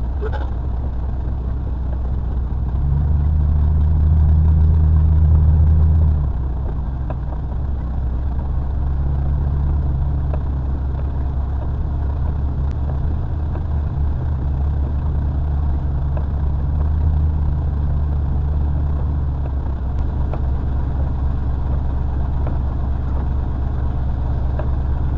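Truck engine running, heard from inside the cab as a steady low hum that swells for a few seconds about three seconds in.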